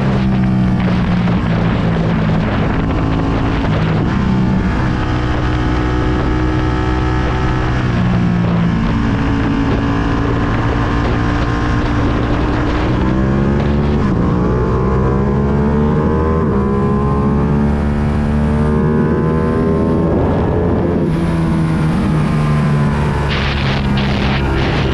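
Ducati Panigale V2's 955 cc twin-cylinder engine running through a full Akrapovic exhaust while riding, its note climbing and dropping several times as the rider accelerates and eases off. Wind buffets the microphone.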